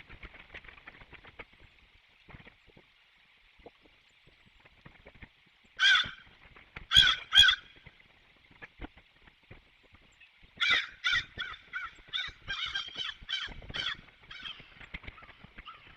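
Crow cawing: a single caw, then two quick ones, then a fast run of about a dozen short, harsh caws near the end, over a faint steady high-pitched background hiss.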